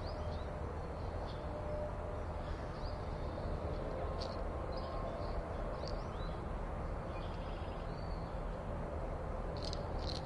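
Small birds chirping: scattered short, high calls, with a brief rapid trill about seven seconds in, over a steady low background rumble.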